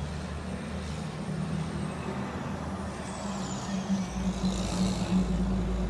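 A vehicle engine running steadily at idle as a low hum, with a deeper rumble coming in about four seconds in.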